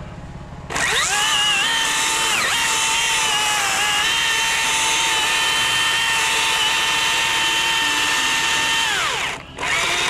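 Battery-powered chainsaw running at full speed through a cut, a high steady motor whine that briefly sags once under load. Near the end it winds down to a stop and is revved straight back up.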